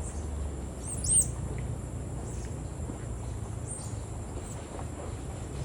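Small birds chirping: a few brief, high, arched chirps scattered through, the loudest about a second in, over a steady low rumble.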